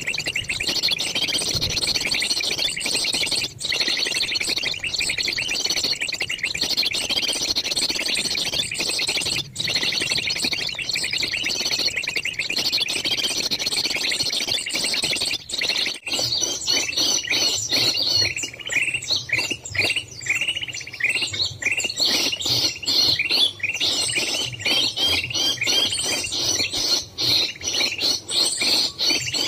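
A dense, continuous chorus of small birds chirping and twittering. About halfway through it turns into rapid, evenly repeated short chirps, several a second.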